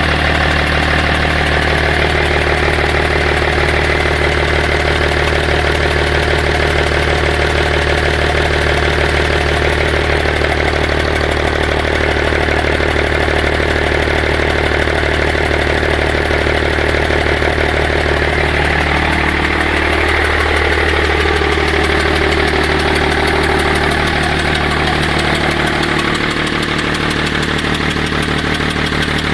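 BMW 530d straight-six diesel idling steadily with its intake manifold removed, run to warm up the injectors for removal. The idle note wavers briefly about two-thirds of the way in.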